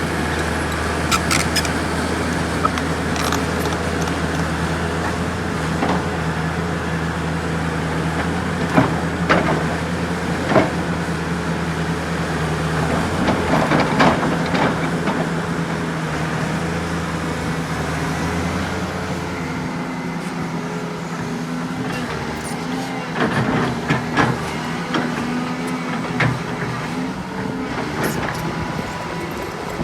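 Heavy diesel earthmoving machinery running steadily, with sharp clanks and knocks at intervals. The engine note shifts higher about twenty seconds in.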